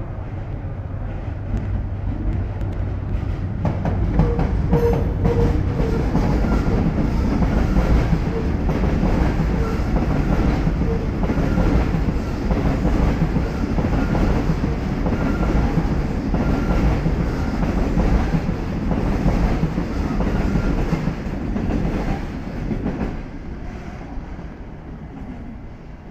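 Freight train passing, its wagons' wheels clattering over the rail joints. It grows loud about four seconds in, runs on, then fades away near the end.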